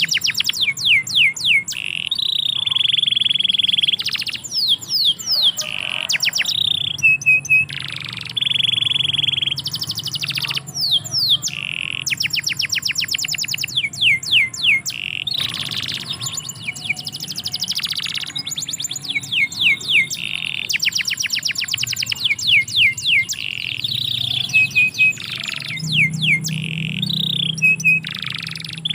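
Domestic canary singing continuously: fast trills of rapid downward-sweeping notes alternate with held, buzzy rolling notes.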